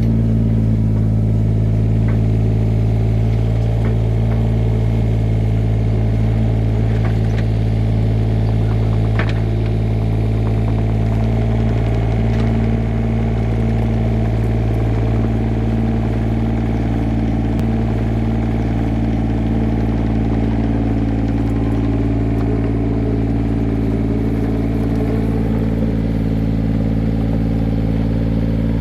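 Mini excavator's diesel engine running steadily at a constant speed, with a few faint clicks over it.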